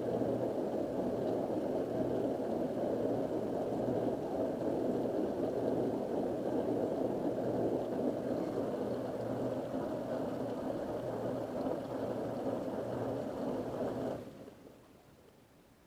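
Dishwasher running its test cycle: the pump motor hums under steady churning and spraying water, then it stops about fourteen seconds in and the sound dies away.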